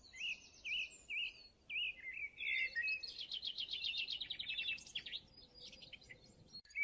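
A songbird singing a varied song: short repeated whistled notes at first, then a fast, rapid trill from about three seconds in, followed by assorted chirps.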